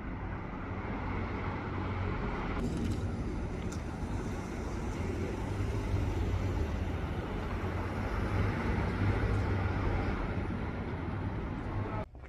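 Road vehicle noise: a steady low engine hum with a rushing noise over it, swelling over the first couple of seconds, then cutting off abruptly near the end.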